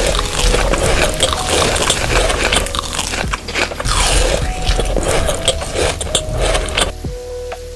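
Close-miked crunchy biting and chewing of food, a dense run of crackles that stops about seven seconds in.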